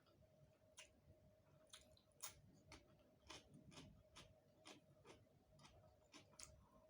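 Faint close-up eating sounds: a person chewing food, with soft wet mouth clicks at irregular intervals.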